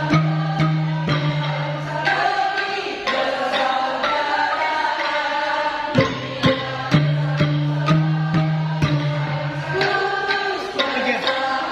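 Kolintang ensemble playing: wooden xylophones struck in a steady rhythm over held low bass notes, with a women's choir singing along.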